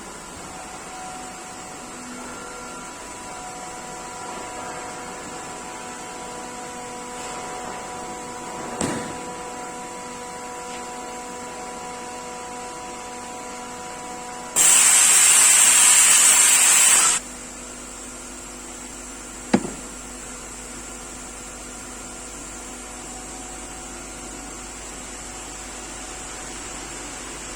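Steady hum of CNC panel-processing machinery with a few faint steady whining tones. About halfway a loud hiss of air runs for about two and a half seconds and cuts off suddenly. Two short sharp knocks come before and after it.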